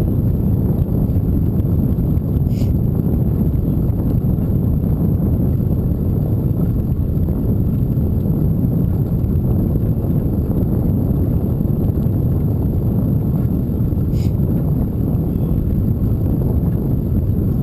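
Steady low rumble of wind buffeting the microphone while riding a bicycle, with two brief high chirps, one about two and a half seconds in and one near the end.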